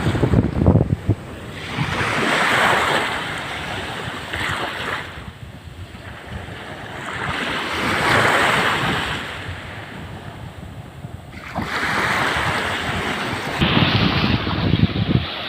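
Sea waves washing onto the shore, swelling and fading three times about every five seconds, with wind buffeting the microphone as a low rumble near the start and again near the end.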